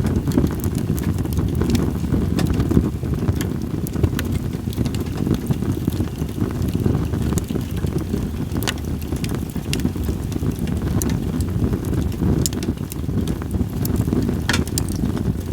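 Split sawtooth oak (kunugi) firewood burning in a campfire, crackling with scattered sharp pops over a steady low rumble of wind on the microphone. A brief hiss comes near the end.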